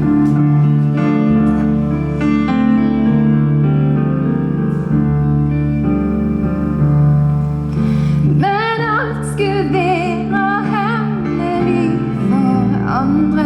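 Keyboard playing slow sustained chords as an introduction, then a woman's solo singing voice with vibrato comes in about eight seconds in over the accompaniment.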